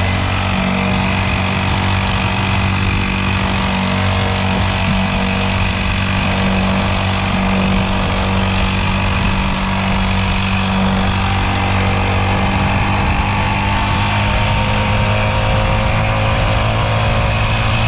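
Small kids' dirt bike engine running steadily while being ridden, its note holding even with a faint whine edging up in pitch in the second half.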